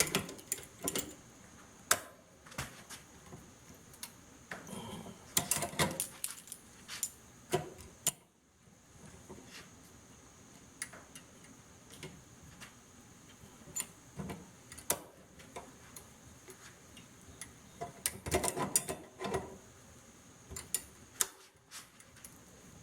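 Metal tools clicking, knocking and scraping against a microwave magnetron clamped in a vise as its housing is pried apart. Scattered sharp clicks, with two longer spells of clattering and scraping, about five seconds in and again later on.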